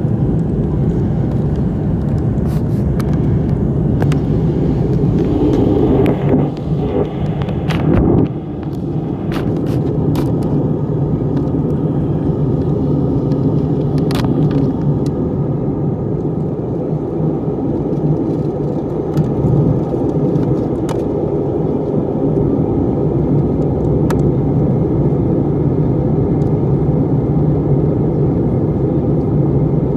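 Steady, loud low rumble of a passenger plane in flight, its engine and airflow noise heard inside the cabin. It swells briefly and dips about eight seconds in, with a few faint clicks over it.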